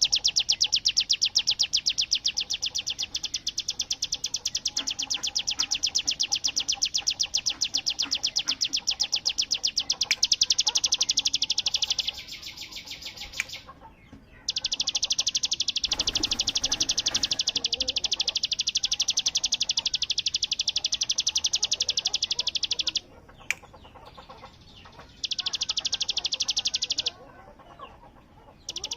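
Ciblek gunung (a prinia) singing its rapid 'bren' song: long, machine-gun-like trains of high, evenly spaced notes. The first train runs about twelve seconds. Two shorter trains follow, each after a brief pause.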